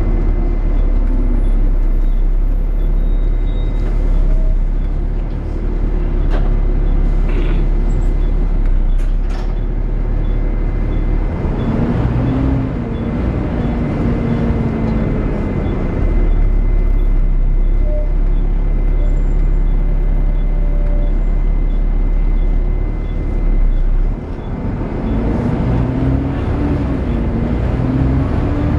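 Volvo B7TL double-decker bus heard from on board: its seven-litre six-cylinder diesel running under a loud whine from the engine cooling fan (the 'hoover'), with the engine note rising as the bus pulls away, once near the middle and again near the end.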